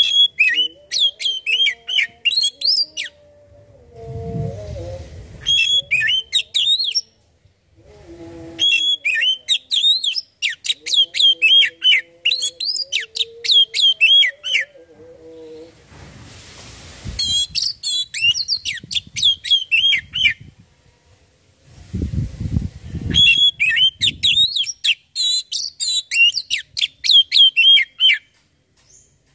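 Oriental magpie-robin singing in repeated bursts of rapid, varied whistled and chattering phrases, with short pauses between bursts. A lower wavering tone sounds faintly between some bursts, and there are two brief low rumbles.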